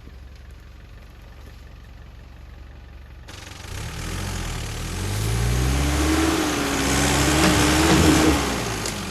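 Off-road SUV's engine revving hard under load, rising in pitch and holding high for a few seconds before easing off near the end, with a rushing noise over it from the tyres and water. It is a run at a steep climb out of a river crossing that lacked enough speed.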